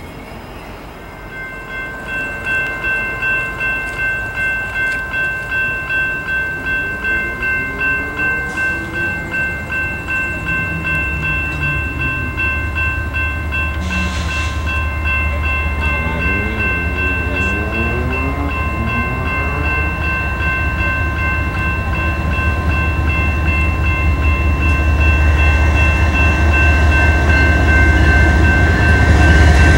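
Freight train led by GE diesel locomotives, a GEVO and a Dash 9, approaching, its low rumble growing steadily louder. Over it a steady high ringing tone pulses about twice a second at first, then holds steady.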